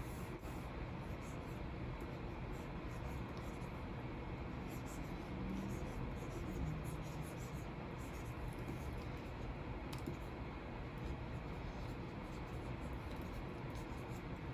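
Stylus nib scratching across the screen of a Wacom Cintiq 24 Pro pen display in many short strokes, over a steady hiss.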